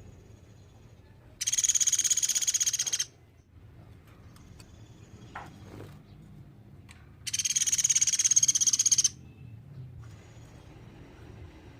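Pelatuk beras woodpecker (common flameback) giving its rapid rattling call twice, each rattle lasting about a second and a half and coming several seconds apart.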